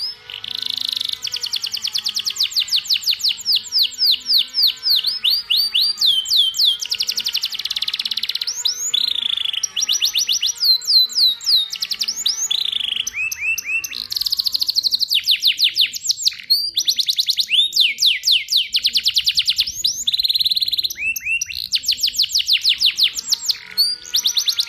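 Domestic canary singing a long, almost unbroken song of fast rolling trills, each a rapid run of repeated down-slurred notes, shifting in speed and pitch from phrase to phrase.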